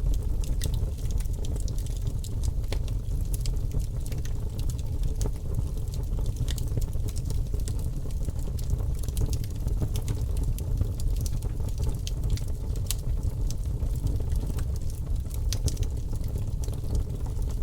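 Wood fire crackling in a fireplace: a steady low rumble of flames with frequent small sharp pops and snaps.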